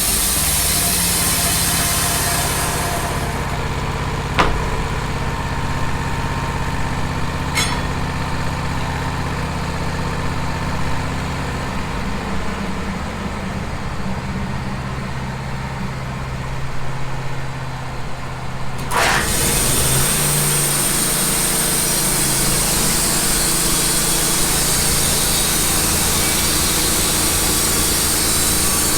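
Wood-Mizer LT15 portable band sawmill running steadily. A high hiss stops about three seconds in and comes back suddenly about nineteen seconds in, as the engine note shifts, with two sharp clicks in between.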